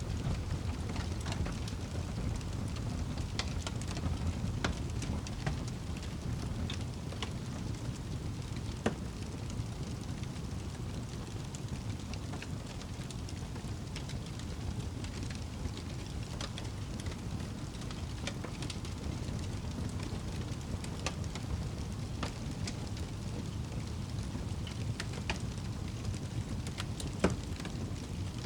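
Wood fire burning in a fireplace: a steady low rumble of flames with scattered crackles throughout and two louder pops, about nine seconds in and near the end.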